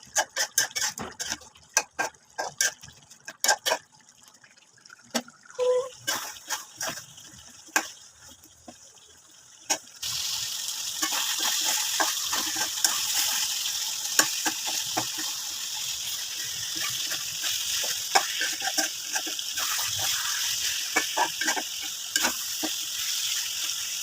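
Kitchen sounds: sharp clinks and knocks of utensils, then about ten seconds in a steady hiss starts suddenly and keeps on, with occasional knocks over it.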